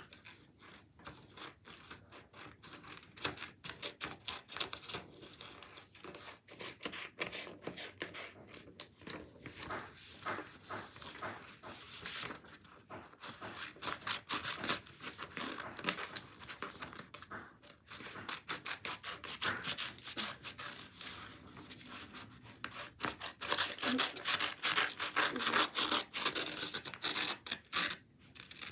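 A sheet of paper being handled and folded: continual rustling, rubbing and crinkling with many small crackles, busier in the second half.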